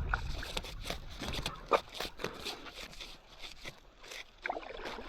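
Kayak paddling on a lake: paddle blades dipping and splashing, with scattered drips and knocks, and voices in the background.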